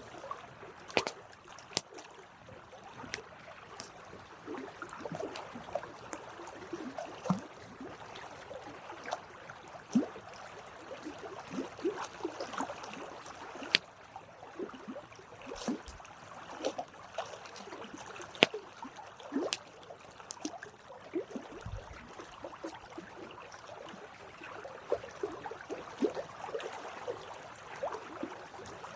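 Campfire burning: wood crackling with irregular sharp pops over a soft hiss and faint sputtering squeaks.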